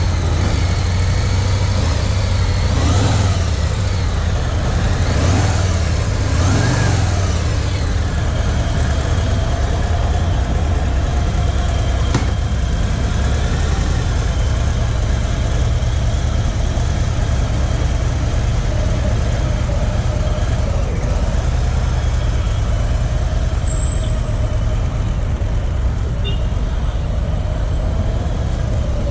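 Harley-Davidson V-twin motorcycle engine blipped three times in the first several seconds, each rev rising and falling, then running steadily at idle.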